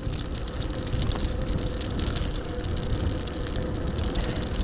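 Electric bike being ridden: wind rumbling on the action camera's microphone and tyre noise on the track, with a thin steady whine from the bike's motor under power.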